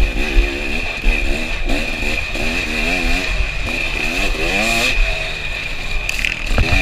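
KTM 300 two-stroke dirt bike engine revving up and down again and again as the throttle is worked through tight woods trail.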